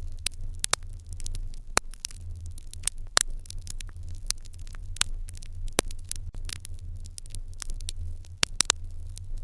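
Wood fire in an irori hearth crackling, with irregular sharp pops several times a second over a low steady rumble.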